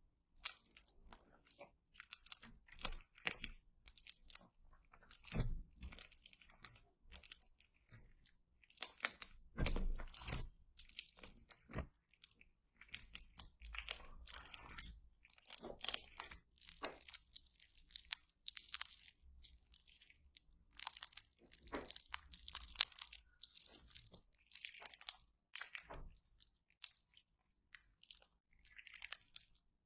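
Slime being squeezed and pressed by hand, making irregular bursts of crunching and crackling.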